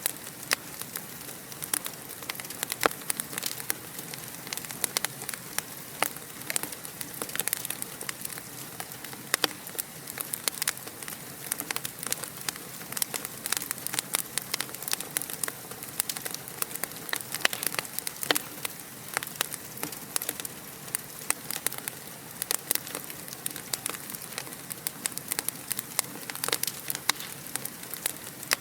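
Fire in a fireplace crackling steadily: a soft hiss with many small, sharp pops at irregular intervals, a few louder ones standing out.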